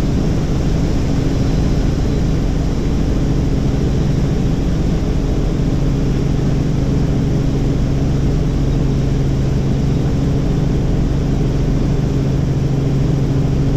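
Helicopter running with a loud, steady drone and an even low hum, without change.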